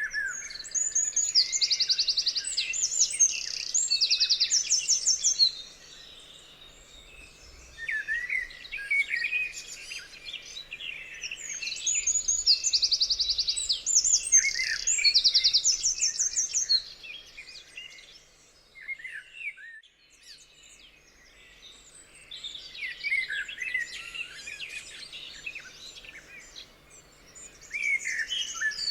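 Birds singing: two loud passages of rapid, high trilled notes, with quieter chirps and short calls in between and a brief lull a little past the middle.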